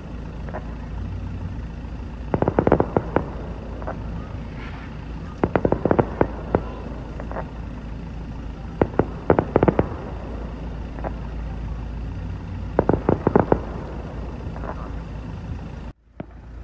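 Distant fireworks crackling: four clusters of rapid sharp pops, each lasting about a second and a few seconds apart, over a steady low rumble.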